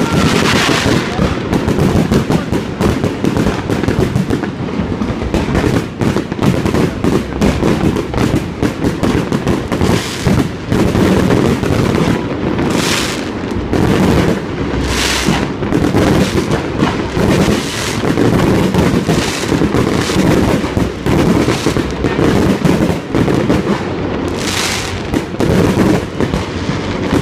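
Fireworks display: a dense, unbroken run of bangs and crackling, with a few hissing bursts about halfway through and again near the end.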